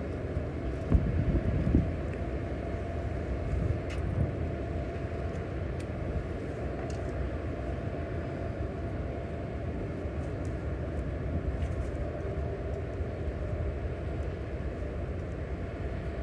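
A steady low mechanical rumble with a faint steady hum, with a few louder knocks in the first two seconds.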